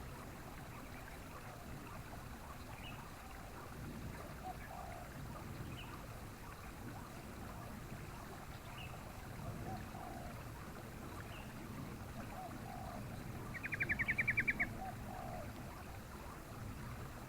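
Yellow-vented bulbul (trucukan) calling: a quick rattling burst of about a dozen notes near the end, with a few faint short chirps earlier, over a steady background hiss like running water.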